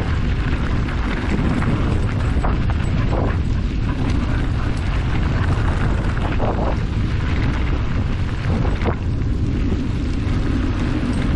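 Steady, heavy wind rumble buffeting the microphone of a camera carried on a moving ride.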